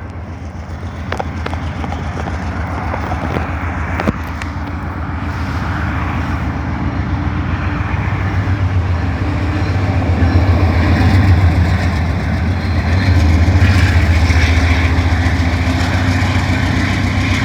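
Diesel locomotive engine running with a deep, steady, pulsing rumble that grows louder over the first ten seconds or so, with a short sharp click about four seconds in.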